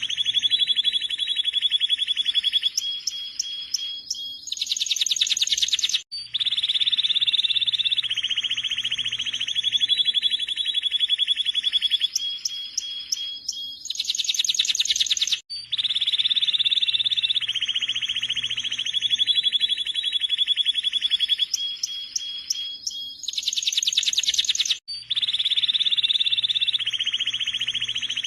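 Domestic canary singing long, rapid trilled rolls and higher pulsed notes. The same song passage repeats identically about every nine and a half seconds, as a looped recording does.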